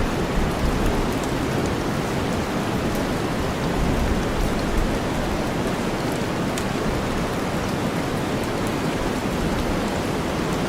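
Steady rain mixed with deep white noise, a constant low-weighted hiss with faint scattered ticks of individual drops.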